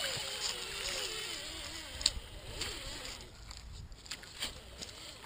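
Electric motor of an RC crawler truck whining, its pitch rising and falling with the throttle for about the first three seconds, with a few sharp clicks and knocks as it crawls.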